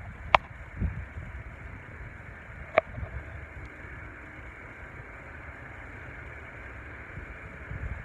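Steady outdoor background noise with uneven low rumbling from wind on the microphone, and two sharp clicks, one just after the start and one about three seconds in.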